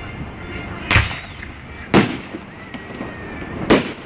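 Fireworks shells bursting: three sharp booms, about a second, two seconds and nearly four seconds in, each with a short echoing tail.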